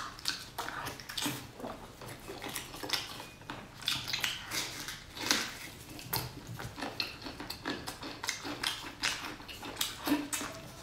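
Close-up wet chewing and lip-smacking on sticky red-braised pork, a quick irregular run of squishy smacks and clicks with no rhythm.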